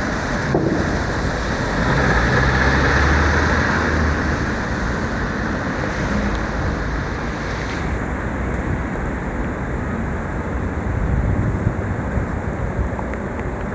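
Wind rushing over the microphone and the hiss of a bicycle's tyres on a rain-soaked road during a ride in heavy rain. The high hiss drops away about eight seconds in.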